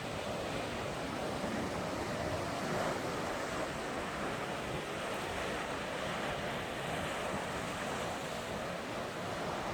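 Sea surf breaking and washing against a rocky shore, a steady rush of water noise.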